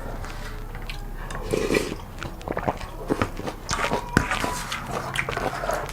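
A person biting and chewing noodles: a string of irregular wet clicks and smacks, the sharpest about four seconds in.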